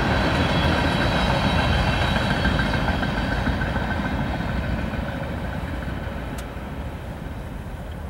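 The last cars of a CSX manifest freight train rolling by, steel wheels rumbling and rattling on the rails. The sound fades steadily as the end of the train moves away.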